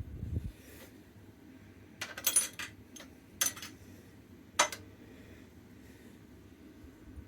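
Metal parts clinking against each other and a hard surface as they are handled: a low thud at the start, a quick cluster of clinks about two seconds in, then two single sharp clinks about a second apart.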